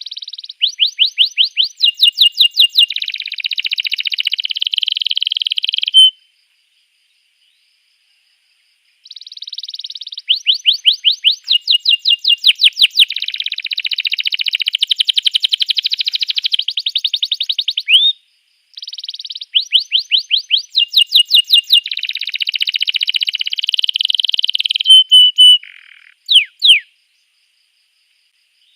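Domestic canary singing: three long song phrases of fast, rolling trills made of rapidly repeated rising notes, each phrase about six seconds long, with dead-silent gaps between them. The last phrase ends in a few sharp separate notes.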